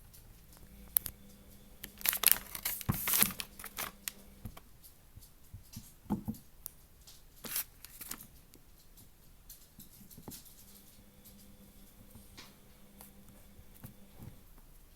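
Hands working on a model, making crackling, tearing handling noises: a dense run of them about two seconds in, then scattered clicks and crinkles.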